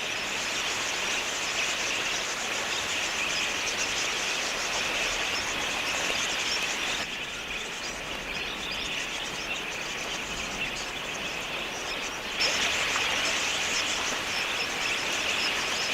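A large flock of wild budgerigars chattering, a dense steady mass of high twittering chirps, louder near the end.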